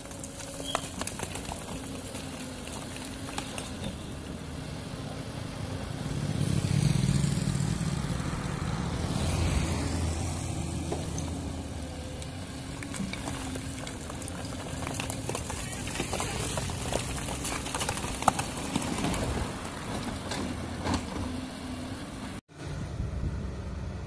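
Caterpillar 320D hydraulic excavator's diesel engine working under load while digging rock, swelling louder twice in the first half, with scattered knocks.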